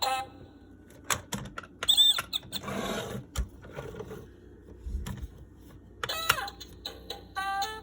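Fisher-Price Little People Big Zoo electronic toy being handled and played. There are a few plastic clicks, then a short squeaky electronic animal sound, and a snatch of its tinny tune comes back near the end.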